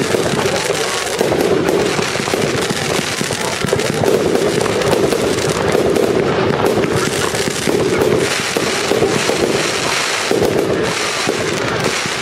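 Fireworks going off in quick succession: a dense, continuous crackling and popping of aerial firework bursts.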